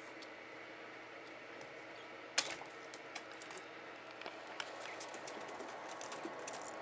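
Japanese quail pecking and scratching about the cage: light, irregular taps and clicks, with one sharper knock about two and a half seconds in and the tapping growing busier in the second half.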